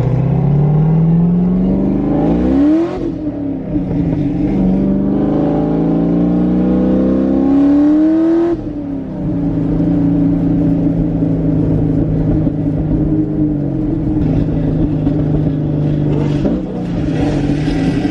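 A car engine accelerating hard through the gears: revs climb, drop at an upshift about 3 s in, climb again more slowly, drop at a second upshift about 8.5 s in, then hold steady.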